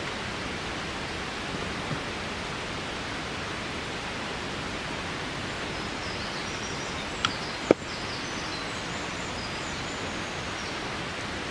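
Steady rushing of water, an even hiss, with two sharp clicks about seven and a half seconds in and faint high chirps in the second half.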